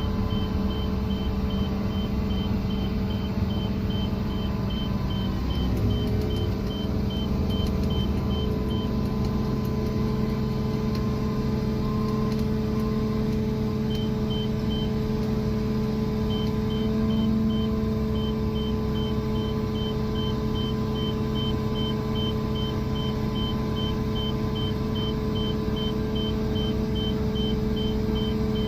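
A construction crane's engine running steadily, with a rapid high-pitched warning beeper sounding about two to three beeps a second. The beeping stops about nine seconds in, comes back briefly around fourteen seconds, and runs again from about sixteen seconds on.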